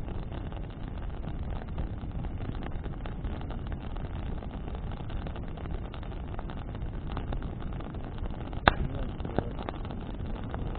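Bonfire burning in the wind, a steady low rush with scattered crackles and one sharp pop near the end.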